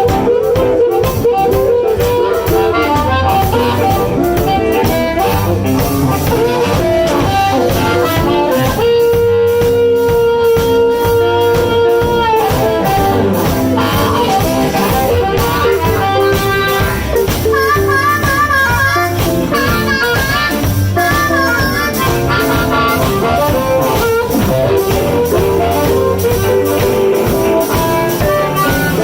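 Live blues band playing an instrumental passage over a steady beat. A lead instrument holds one long note about a third of the way in, and plays a wavering, vibrato note a little past the middle.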